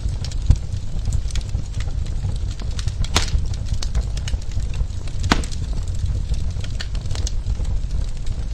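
Wood burning in a fireplace, crackling with many small irregular pops over a steady low rumble, with two sharper pops about three and five seconds in.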